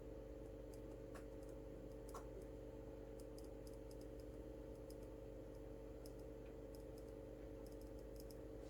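Faint steady hum with scattered light clicks, some in quick little clusters.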